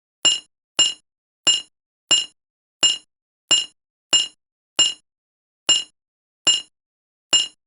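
A series of about eleven short, bright metallic clinks, each with a brief ringing tone. They come roughly every two-thirds of a second, the gaps widening slightly toward the end.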